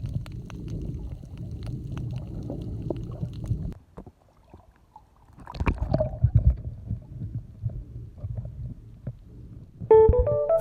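Muffled low rumbling and sloshing of water against a camera in a waterproof housing while swimming at the surface. It cuts out for about a second and a half, comes back as irregular thumps, and background music begins near the end.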